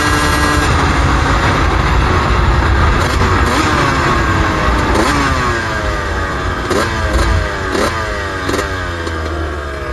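Suzuki RM125 125cc two-stroke single-cylinder engine running under way, its pitch falling steadily as the bike slows. In the second half come several quick throttle blips.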